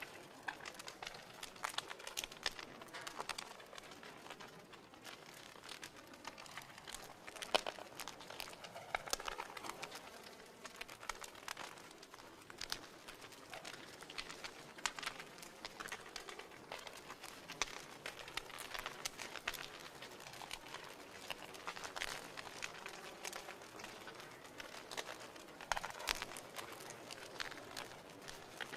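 Wood fire crackling in a fireplace: a steady stream of small pops and ticks, with a few louder pops, one about seven seconds in and another near the end.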